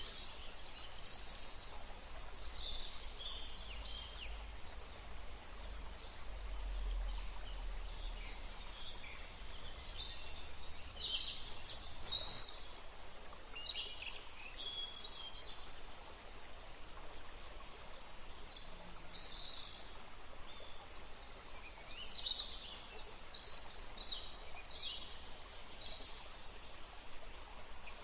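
Small birds chirping: many short, high calls scattered throughout, over a steady faint background noise, with a low rumble during roughly the first eight seconds.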